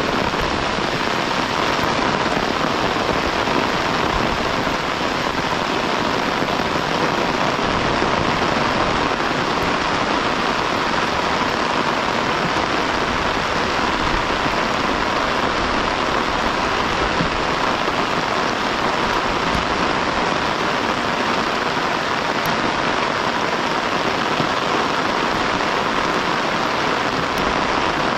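Heavy rain falling steadily, a constant hiss of drops with no breaks.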